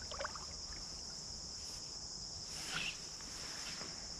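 Insects trilling steadily in a high, even drone, with one faint short sound a little under three seconds in.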